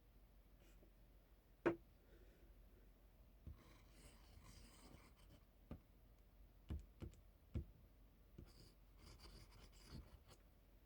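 Quiet scratching strokes on a surface, like writing or brushing, with a handful of small sharp knocks; the loudest knock comes just under two seconds in.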